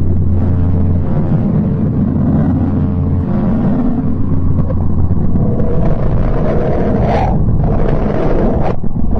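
Spacecraft radio-wave recordings converted into sound: a low, steady rumbling drone with a deep hum and faint held tones, turning into a noisier rushing texture about five and a half seconds in, with further abrupt shifts near the end.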